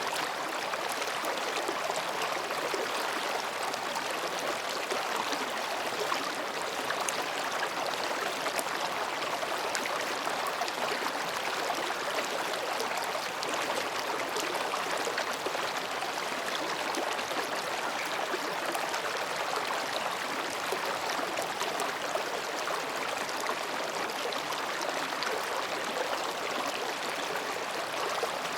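Mountain stream flowing between rocks, a steady babbling wash of water with small splashes.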